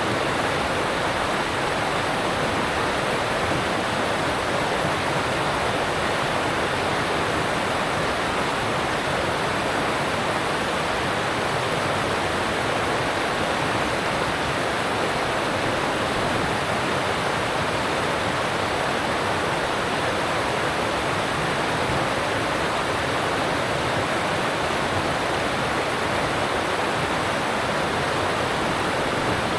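Alpine mountain stream rushing steadily over rocks, a constant full rush of water.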